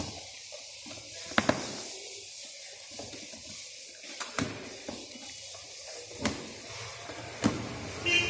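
A handful of short, sharp clicks and knocks, spaced a second or two apart, over a steady hiss: parts and tools being handled while a ceiling fan is assembled.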